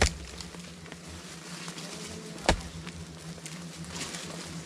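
Two sharp knocks, one at the start and one about two and a half seconds later, over a faint steady hum.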